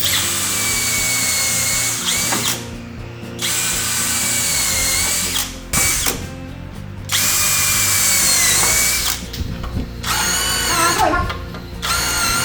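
Electric power drill running in repeated bursts of one to two seconds, stopping briefly in between. Near the end its pitch sweeps up and down as the speed changes.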